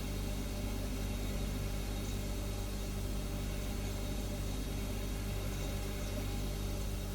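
Refrigerator humming steadily: a low drone made of several steady tones, with a faint hiss above it.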